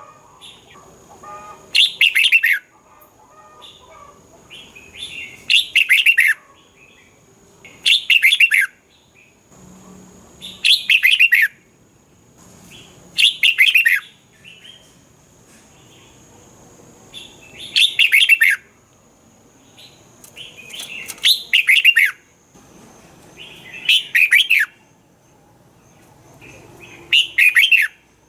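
Red-whiskered bulbul singing: about nine short, loud song phrases repeated every two to four seconds, with faint chirps between them.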